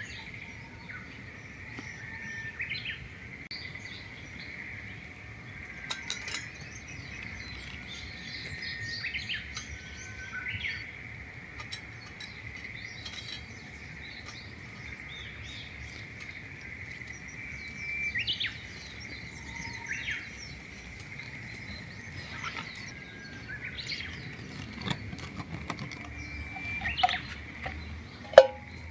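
Birds chirping here and there over a steady high-pitched drone, with a few sharp clicks; the loudest click comes near the end.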